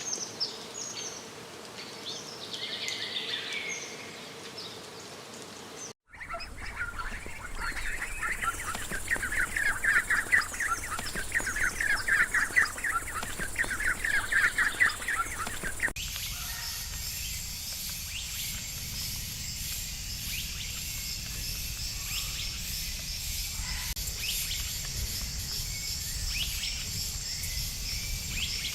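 Outdoor nature ambience cut together from separate clips: scattered bird chirps, then a fast, dense chirping trill, then a steady high-pitched insect drone over a low rumble. The changes are abrupt, about six seconds in and again at about sixteen seconds.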